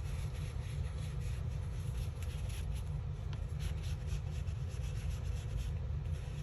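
Ink pad being rubbed along the edge of a paper page, a run of short, quick scuffing strokes over a steady low hum.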